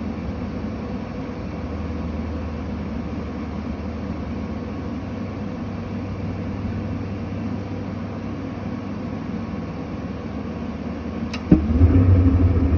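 Atwood RV furnace blower motor running steadily. Near the end there is a sharp click, and then the burner lights with a louder low rush. The burner is lighting but not staying lit.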